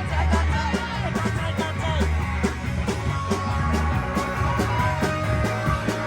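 A live rock band playing: a drum kit hitting steadily over a strong bass line, with the rest of the band's instruments filling out the sound.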